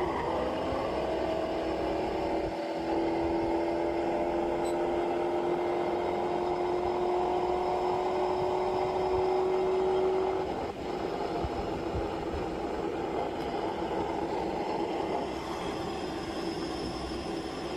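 Car engine sound running at speed, its pitch rising slowly and steadily as if accelerating. About eleven seconds in the tone breaks off briefly, and a rougher steady engine hum carries on.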